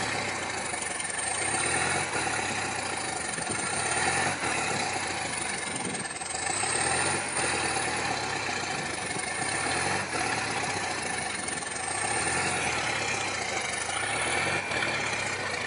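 A large vehicle engine idling steadily.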